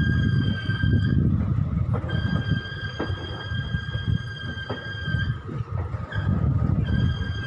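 Passenger train running on the track: a steady rumble of wheels on rails. Over it is a high, steady whine that breaks off about a second in and again about five seconds in.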